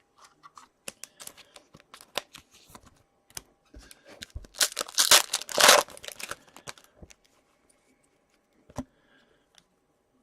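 A foil trading-card pack wrapper being torn open, one loud rip lasting about a second and a half near the middle, amid light clicks and rustles of cards being handled.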